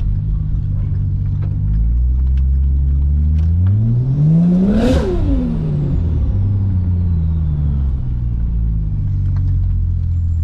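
Turbocharged Ford Barra 4.0 L inline-six (about 700 hp), heard from inside the cabin, pulling hard with the revs climbing for about three seconds. Near the middle there is a short burst of noise as the throttle closes, then the revs fall away slowly while a high turbo whistle winds down.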